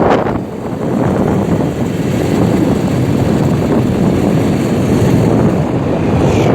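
Steady, loud rushing of wind buffeting the microphone on a moving bike, mixed with vehicle and road noise.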